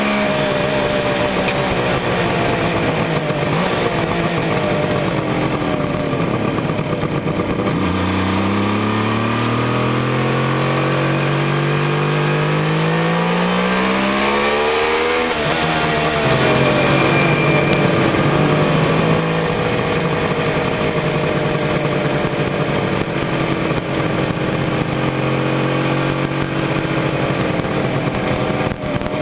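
Suzuki GT550's air-cooled two-stroke three-cylinder engine under way. Its note rises steadily for about seven seconds, drops sharply at a gear change about halfway through, then runs steady.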